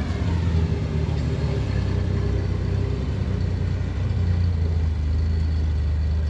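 A rock-crawling rig's engine running at low, fairly steady revs.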